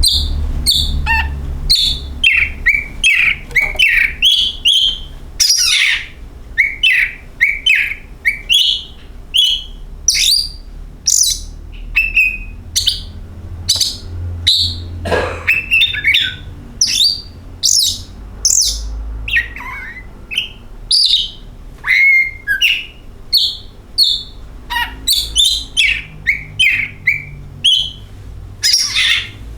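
Oriental magpie-robin (kacer) singing a rapid, varied song of short whistled and harsh notes, a couple a second without pause, over a steady low hum.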